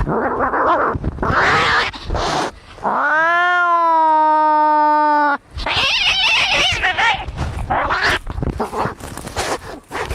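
Cats fighting: harsh hissing and screeching, broken in the middle by one long drawn-out yowl, about two and a half seconds, that rises at first and then holds steady.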